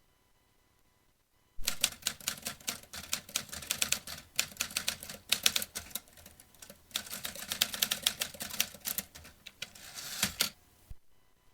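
Vintage typewriter being typed on: fast runs of key strikes begin about a second and a half in, pause briefly in the middle, and stop shortly before the end.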